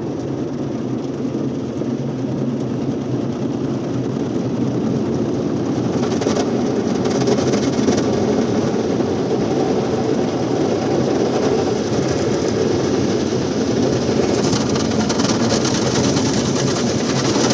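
Automatic car wash working on the car, heard from inside it: a steady rumbling wash of spraying water and machinery, gradually growing louder, with the hiss of the spray strengthening near the end.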